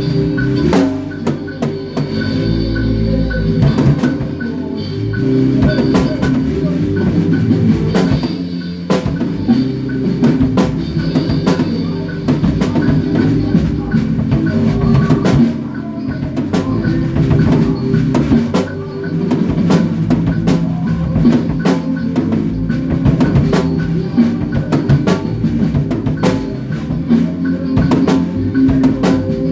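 A band playing in rehearsal: a drum kit, with snare and bass drum hits, keeps a steady beat over sustained low bass notes that change every few seconds.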